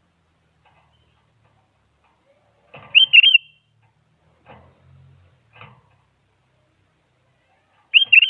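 Sooty-headed bulbul (kutilang) singing short, quick phrases of bubbly up-and-down notes, twice, about five seconds apart, with a few faint, scratchy calls between.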